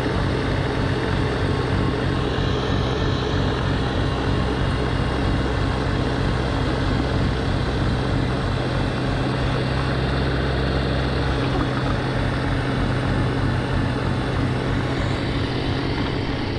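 Diesel tractor engine running steadily while driving its front-mounted snowblower.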